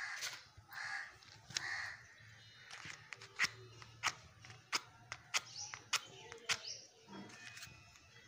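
A bird calling three times in the first two seconds, about a second apart, then a run of sharp clicks, about three every two seconds.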